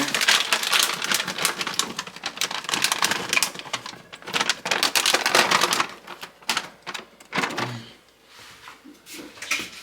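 Rapid clicking and rustling as shredded cheese is added to a pot of drained macaroni, dense at first and thinning out after about six seconds.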